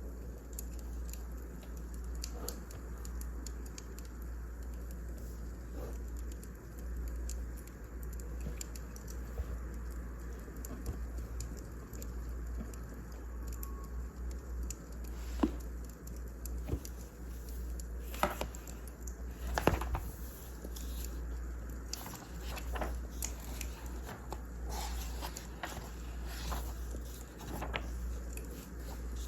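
A wood fire burning, with irregular crackles and pops over a low steady rumble; the pops come more often in the second half, with a few sharper ones around the middle.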